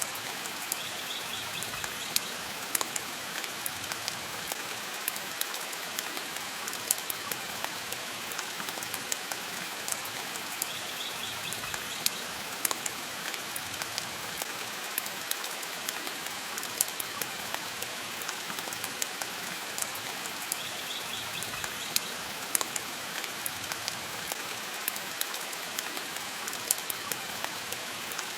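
Steady rain hiss with frequent sharp crackles and pops from a wood fire burning in a stone fireplace.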